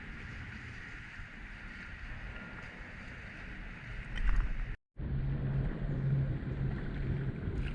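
Strong wind on the microphone with water sloshing against a small boat, a steady rushing noise. About four seconds in there is a loud low knock, followed by a brief cut to silence.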